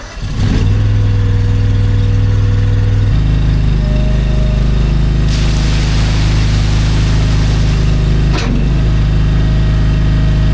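Excavator's diesel engine running steadily at close range. Its note shifts lower and heavier about three seconds in, and it dips briefly near the end.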